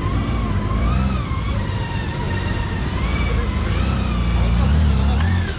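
A motor vehicle engine running under a wavering, siren-like tone that rises and falls. The engine grows louder near the end, then drops off suddenly.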